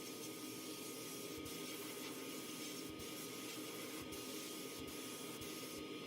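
Steady spraying hiss of an air-powered spray tool working on the toy truck's metal, with a faint constant whine. The hiss dips briefly about once a second.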